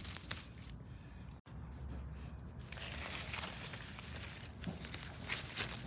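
Weeds being pulled out of a garden bed by hand: the leaves rustle and the stems and roots tear from the soil in short, scattered bursts, with a sharp click just after the start.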